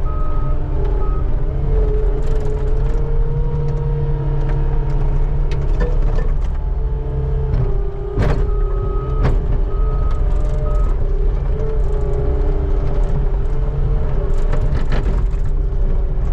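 Skid steer engine running steadily under load, its pitch shifting as the machine works, with a reversing alarm beeping in short runs near the start and again about halfway through. Two sharp knocks come about eight and nine seconds in.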